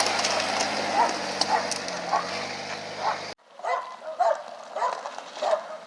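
A dog barking repeatedly, about two short barks a second. For the first half an engine runs steadily underneath, then cuts off abruptly about three and a half seconds in.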